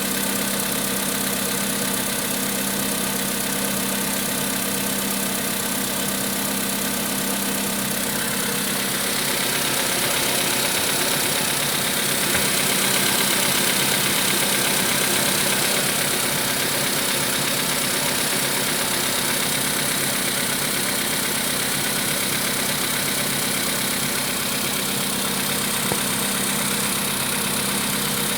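Volkswagen Polo Sedan engine running steadily, with the engine knock that has appeared 1000 km after its piston group was replaced. The sound grows a little louder and brighter about a third of the way in.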